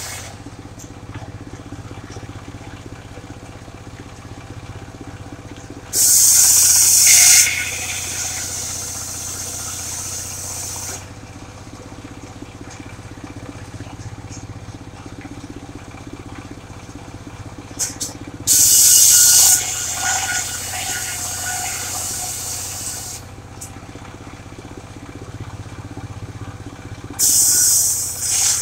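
Engine-driven mobile circular sawmill running steadily while its blade rips sengon timber. Three times the blade bites in with a loud, high hiss that eases off over a few seconds as the cut goes on.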